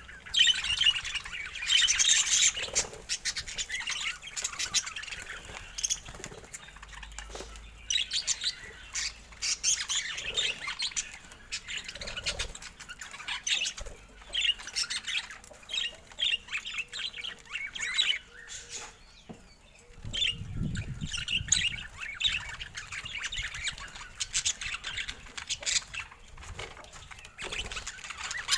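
Pet budgerigars chattering and chirping in quick, busy runs of warbles and squawks, with a brief low rumble about two-thirds of the way through.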